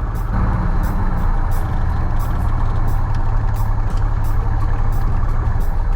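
Cessna 172H's six-cylinder Continental O-300 engine and propeller running at low power while taxiing, heard inside the cabin as a steady low drone, with a faint regular ticking about every two-thirds of a second.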